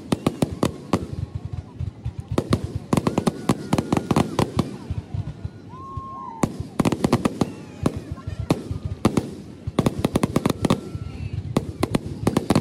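Fireworks display: aerial shells bursting in rapid volleys of bangs and crackles, with short lulls between the volleys in which voices can be heard. The audio is sped up to 1.5 times normal speed.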